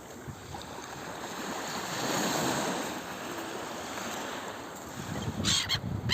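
Black Sea waves washing onto the shore, one wave swelling about two seconds in and then drawing back, with wind buffeting the microphone. A short hiss comes near the end.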